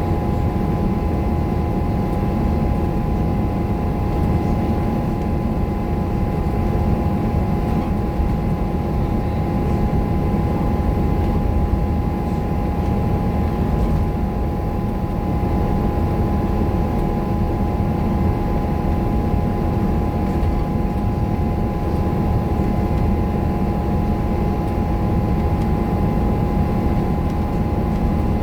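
Scania K230UB single-deck bus's five-cylinder diesel engine running steadily under way, a constant low drone with a steady whine above it and no gear changes or pauses, heard from inside the bus.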